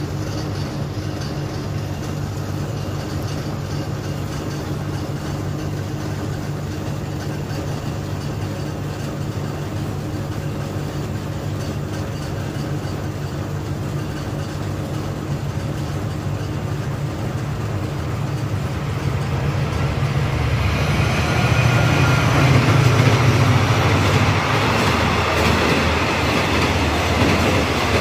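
Diesel-hauled passenger train approaching and passing on the track: a steady low engine hum that swells about 20 seconds in, then the rush and wheel clatter of the coaches going by.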